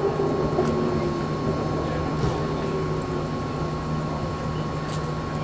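Steady low hum of idling vehicle engines with street noise, with a thin steady whine above it.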